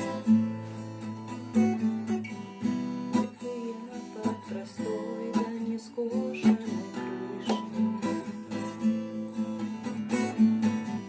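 Acoustic guitar strummed in a steady rhythm, playing an instrumental passage of a song without singing.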